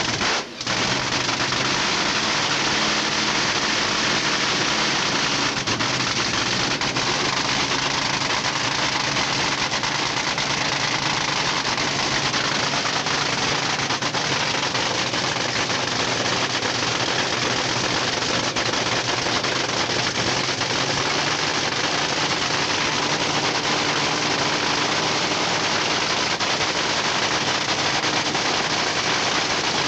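Supercharged V8 of a drag-racing Funny Car running steadily at idle, a loud, dense rapid firing clatter that holds level throughout.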